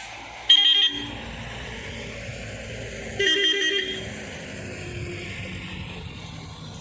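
Heavy vehicle's horn sounding twice, a short blast about half a second in and a longer one about three seconds in, each with a warbling tone. A diesel engine runs steadily underneath.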